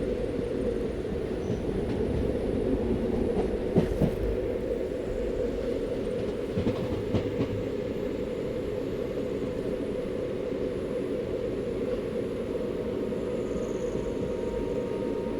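Indian Railways train running along the track: a steady rumble of wheels on rail, with a few sharp clicks about four seconds in and again around seven seconds in.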